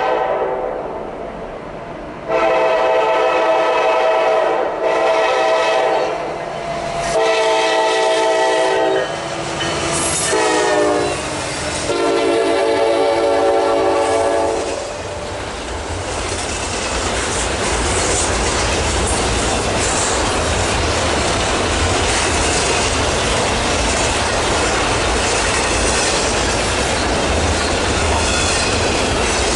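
Norfolk Southern freight locomotives sound their multi-note air horn as they pass: two long blasts, a short one whose pitch drops as the engines go by, then a long one. This is the grade-crossing signal. After that the train rolls past with a steady rumble, wheels clacking over the rail joints and a faint squeal.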